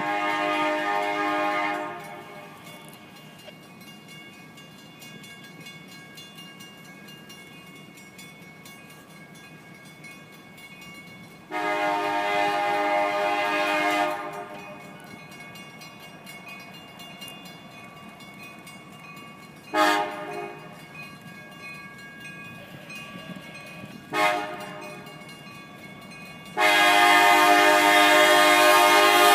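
Locomotive air horn sounding a chord in separate blasts: a long blast at the start, another long one about twelve seconds in, two short toots around twenty and twenty-four seconds, and a long blast near the end. Between the blasts the train's steady running noise.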